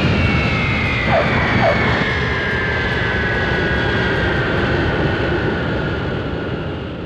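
Jet airliner sound effect of a landing roll-out: a broad rumble with an engine whine that falls slowly in pitch as the engines wind down, fading toward the end. Two short chirps come about a second in.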